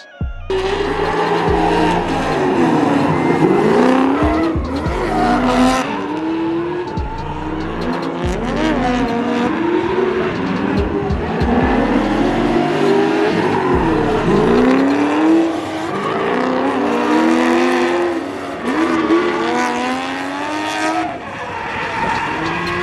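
Drift cars sliding: engines revving up and down again and again with tyres squealing, over the bass line of a music track.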